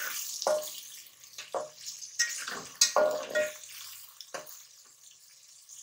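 Grated bitter gourd peelings sizzling in hot oil in an aluminium pot, stirred with a metal slotted spatula that scrapes the pot in several short strokes, some with a brief metallic ring. The stirring stops after about four and a half seconds, leaving a faint sizzle.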